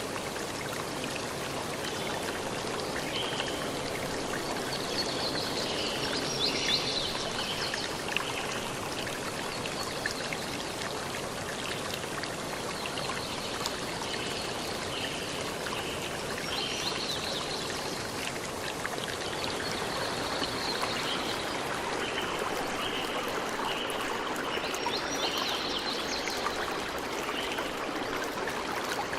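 Stream water flowing steadily, with short high-pitched calls now and then.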